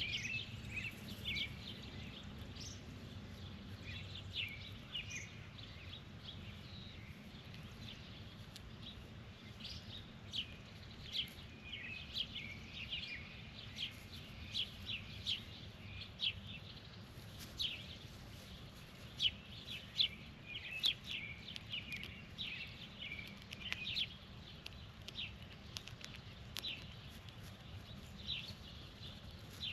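Small birds chirping: many short, high calls in quick, irregular succession, busiest in the middle of the stretch, over a steady low background rumble.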